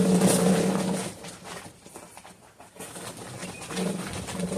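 Home-made wheels on a Honda portable generator rolling over the ground, with a wheel rubbing against its mount, a steady low drone that fades out about a second in and comes back near the end. The rubbing comes from a wheel set slightly too close to the frame.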